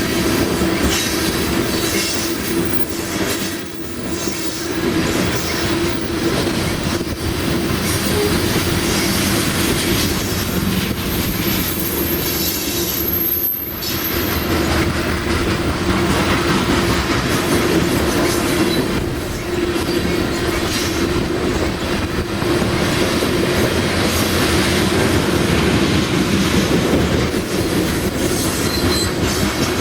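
Coal train cars rolling past at steady speed: a continuous rumble and clatter of wheels over the rail, with a steady squeal from the wheels.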